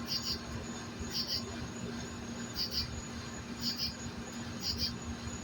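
Cricket chirping: short high double pulses repeating about once a second, over a faint steady low hum.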